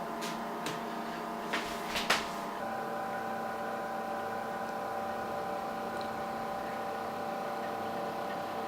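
Small Liebherr drinks fridge running with a steady multi-tone hum, with a few sharp clicks in the first two seconds. About two and a half seconds in, the hum changes and takes on extra higher tones.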